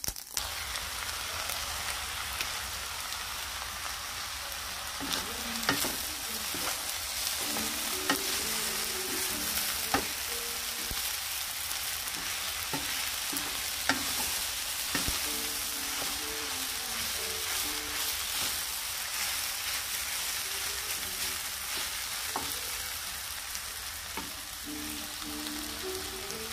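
Fried rice with peas and carrots sizzling steadily in a nonstick pan as it is stirred and turned with a wooden spatula, with the spatula knocking against the pan now and then.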